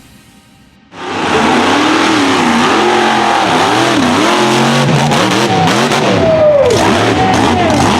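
Supercharged big-block V8 of a mega truck revving hard, its pitch swinging up and down over and over, starting abruptly about a second in.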